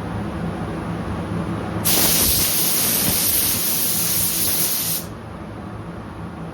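Paint spray gun hissing for about three seconds, starting about two seconds in and cutting off sharply, as it mists blending solvent through a nearly closed fluid needle to melt the hard edge of new clear coat into the old finish.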